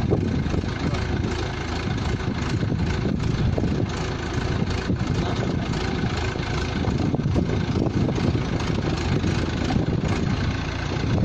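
Pneumatic drilling rig running: a steady, dense mechanical din with a fast rattle in the low end, no let-up.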